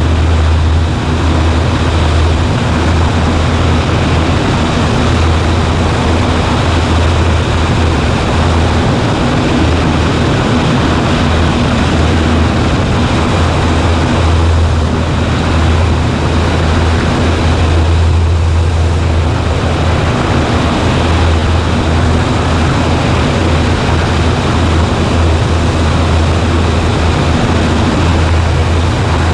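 Cessna 140A's single piston engine and propeller running steadily: a constant low hum under an even rush of air and engine noise.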